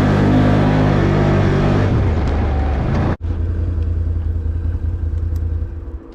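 Off-road vehicle engine running, settling to a lower steady drone after about two seconds, with a sudden break just after three seconds; the drone then fades out and stops near the end.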